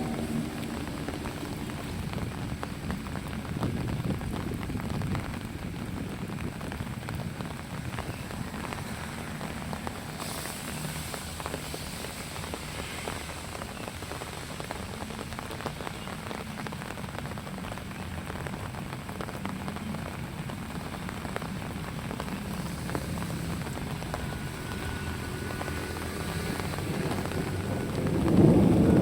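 Steady rain falling, an even patter of many small drop ticks. A louder low rumble builds near the end.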